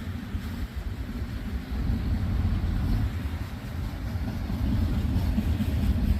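Freight train cars, autoracks among them, rolling past at close range: a steady low rumble of steel wheels on rail.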